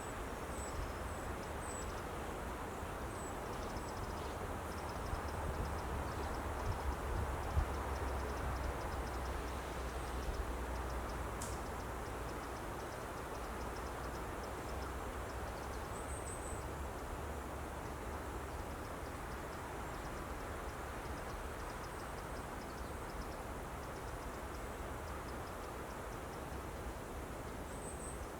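Steady wind noise in woodland, with a low rumble of wind on the microphone and a few faint high chirps now and then.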